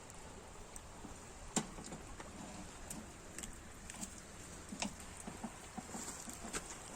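Irregular light clicks and taps, a dozen or so scattered through, over a faint steady hiss.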